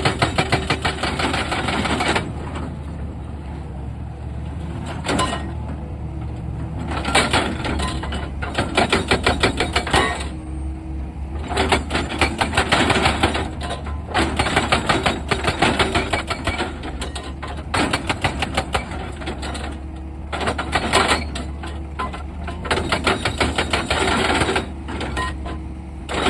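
Hydraulic rock breaker on an excavator hammering in repeated bursts of fast, even blows a few seconds long, with short pauses between them. Under it the excavator's diesel engine runs steadily.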